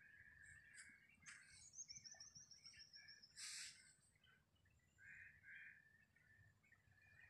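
Faint calls and chirps from several birds in trees. About two seconds in comes a fast, high, slightly falling trill, and a little later a short harsh call.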